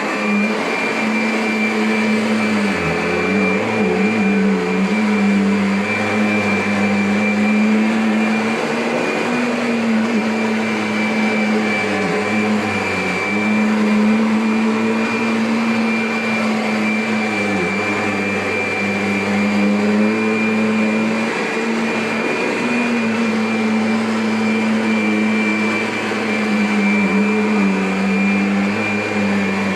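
Kirby upright vacuum cleaner running steadily with a motor hum and a high whine, the motor note dipping briefly every few seconds.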